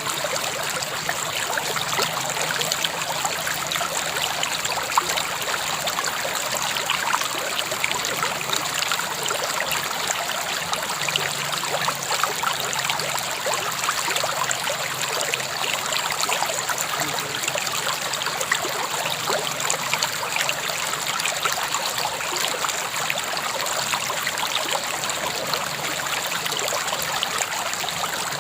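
River water flowing steadily over rocks, a continuous rushing with fine bubbling and trickling detail.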